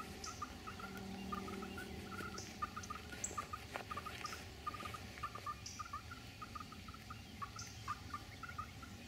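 Birds calling: a steady run of short, rapid chattering notes, with a brief higher chirp every second or two.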